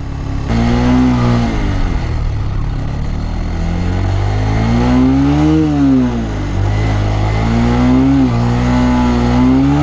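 Motorcycle engine being ridden, its pitch rising and falling as the throttle is opened and eased off, with a peak about halfway through and another climb near the end.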